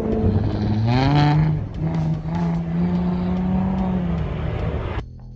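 Car engine revving up under hard acceleration on an autocross course. Its pitch climbs about a second in, holds steady for a few seconds, then fades as the car moves away. Music cuts in abruptly near the end.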